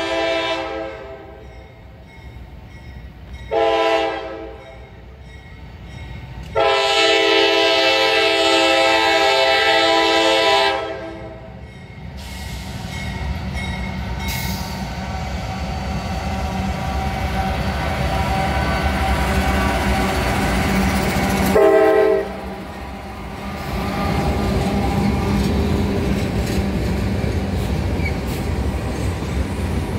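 Diesel freight locomotive horn blowing for a crossing: a blast ending just after the start, a short one about four seconds in, a long one from about seven to eleven seconds, and a short one a little past twenty seconds. Between the blasts the lead GE AC44C6M locomotive's engine rumble grows as it draws near and passes. After that, the flatcars roll by with wheels clattering on the rails.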